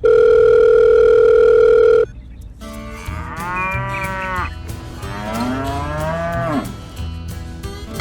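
A loud, steady electronic beep lasting about two seconds. It is followed by two long cow moos.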